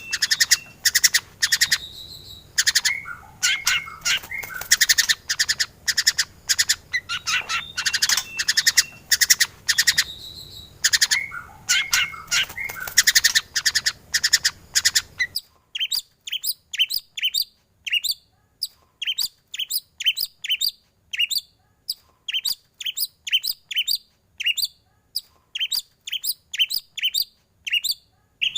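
White-rumped shama singing a rapid, varied song full of chattering and whistled phrases. About halfway it cuts abruptly to a cleaner recording of short, sharp falling notes repeated about three times a second.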